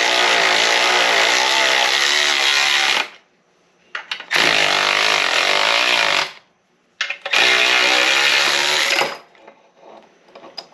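Power tool running in three bursts of two to three seconds each, its motor pitch wavering under load, as it drives a long bolt that presses a shaft and bearing out of a transmission case.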